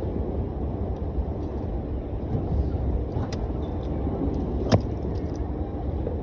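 Steady low rumble of a vehicle heard from inside while it drives, with two sharp clicks partway through.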